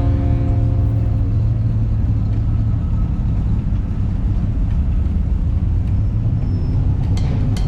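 A car engine running with a loud, steady low rumble.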